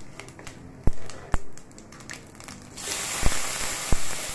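A few sharp knocks, then a sudden loud sizzle about three seconds in as chopped tomatoes go into hot oil with frying whole spices in a non-stick pan. Two more knocks come over the sizzle.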